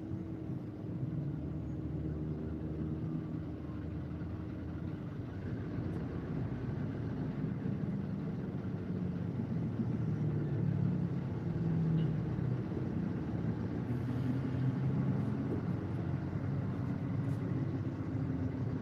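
Low, steady hum of car engines in slow, crawling traffic, heard from inside a car's cabin, its pitch drifting a little as the cars inch forward.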